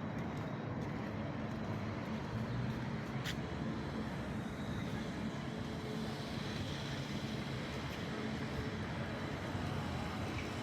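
Steady outdoor background rumble, even in level throughout, with a single short click about three seconds in.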